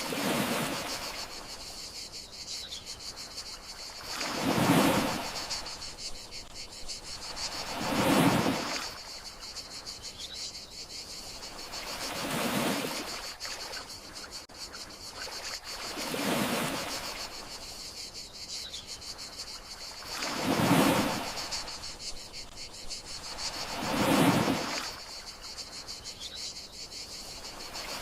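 Gentle sea waves washing onto the shore, each swelling and fading, about one every four seconds, over a steady high chirring of crickets.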